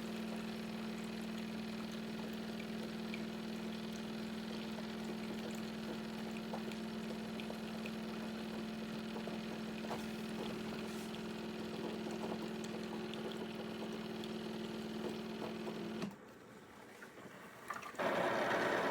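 De'Longhi TrueBrew drip coffee maker running with a steady mechanical hum that cuts off suddenly about sixteen seconds in. After two seconds of quiet, a louder, rougher noise starts near the end.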